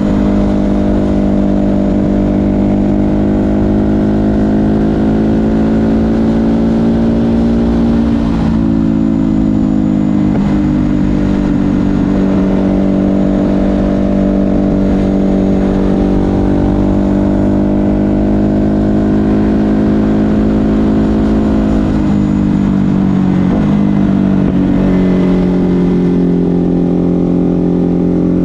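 Ducati Hypermotard 950 SP's 937 cc L-twin running through an SC Project exhaust under steady throttle on the road. Its note holds level, then drops sharply twice, about eight and a half and twenty-three seconds in, before settling again.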